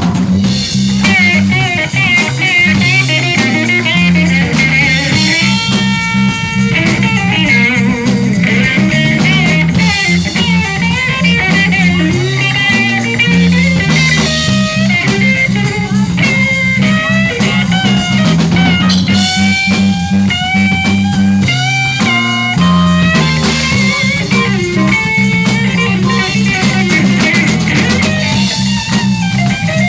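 Live blues-rock band playing an instrumental passage: an electric guitar solo with bent notes over a walking bass line and drum kit.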